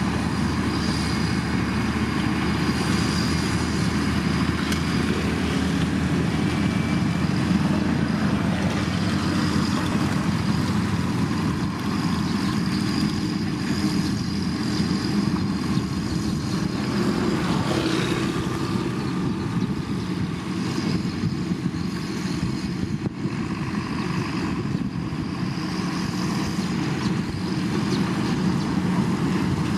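Diesel engines of heavy road-building machinery running steadily under work.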